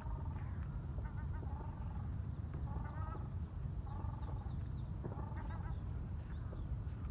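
Waterfowl calling on the lake: repeated goose-like honks, roughly one a second and sometimes overlapping, over a steady low rumble.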